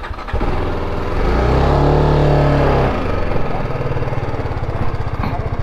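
Motorcycle engine revved once, its pitch rising and falling back, then settling into a steady idle.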